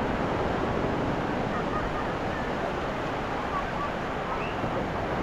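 Ocean surf washing onto a beach in a steady, continuous rush.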